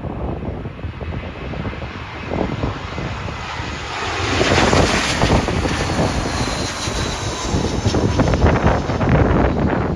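Jet engines of an Airbus A319 airliner passing low overhead, growing loud about four seconds in with a high whine over a wide rushing noise. Gusty wind buffets the microphone throughout.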